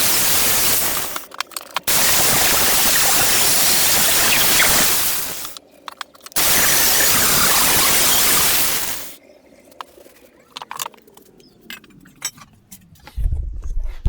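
Welding arc on an exhaust downpipe, hissing and crackling in three passes of a few seconds each, each one starting and cutting off abruptly. Light clicks and ticks follow, and a low rumble comes in near the end.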